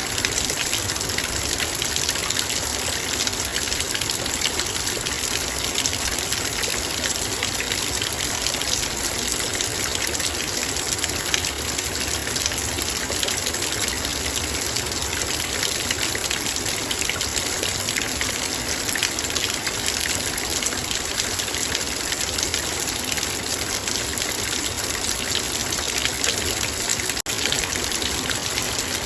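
Heavy rain falling on a metal bowl: a dense, steady patter of many small drop impacts, with a momentary drop-out about 27 seconds in.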